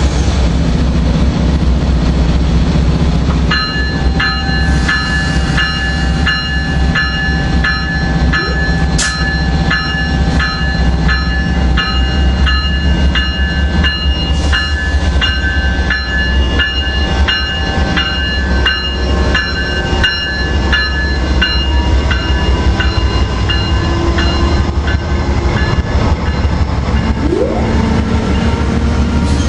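Grade-crossing bell ringing about twice a second over a steady low rumble as an Amtrak train with GE P42 diesel locomotives approaches. The train passes close by near the end.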